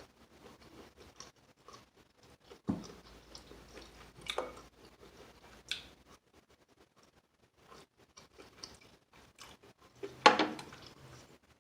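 Close-up mouth sounds of someone chewing crispy fried chicken wings: soft wet chewing and small clicks, with a few louder crunches, the loudest near the end.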